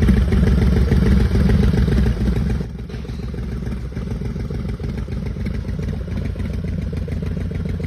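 Motorcycle engine running with a rapid low exhaust pulse, louder for the first two and a half seconds, then dropping to a lower, steady level.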